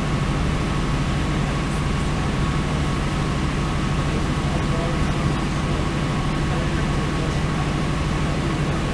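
Northern Ireland Railways diesel train running steadily: a constant low engine drone with a faint steady high tone over an even rumble of running noise.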